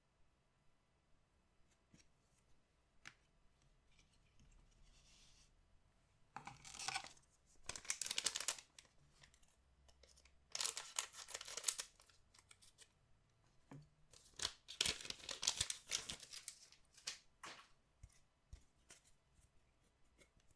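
Collectible card pack wrappers being torn open by hand: three bursts of tearing and crinkling, with small handling clicks between them.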